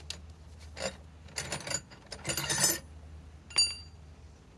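Metal parts clinking and scraping as fasteners and the impact driver are handled and lined up, ending in one sharp, ringing metallic clink near the end. The driver itself is not run.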